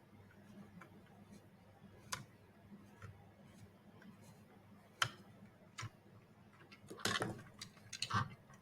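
Small screws being driven to join plastic robot-head parts: scattered light clicks and taps of the parts and screwdriver, with quicker runs of clicking about seven and eight seconds in.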